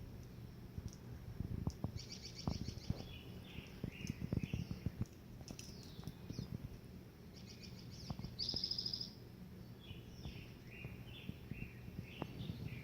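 Small birds chirping, with two rapid trills, one about two seconds in and one about eight seconds in, over a scatter of short low taps and a steady low hum.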